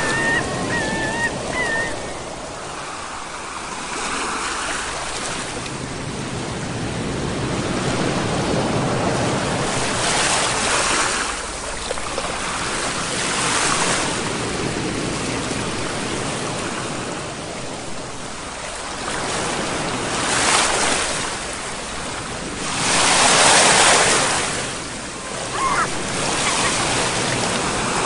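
Ocean waves breaking and washing on the shore in slow surges, the biggest one about three quarters of the way through. A few short high-pitched calls come near the start and near the end.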